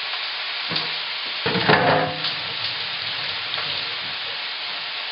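Thin strips of chicken sizzling steadily in hot olive oil in a wok. A short louder clatter comes about a second and a half in.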